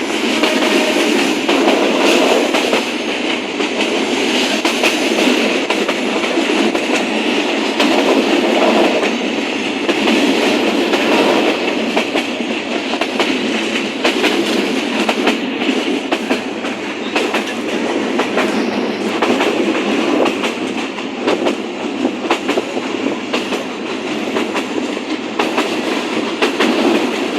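Moving train running along the rails: a steady rumble and rattle with irregular clicks and clatter from the wheels on the track.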